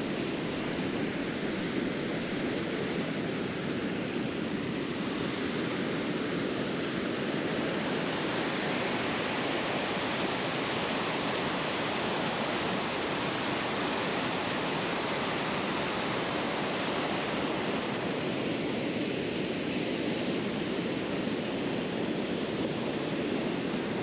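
River rapids rushing: a steady, unbroken sound of fast-moving water.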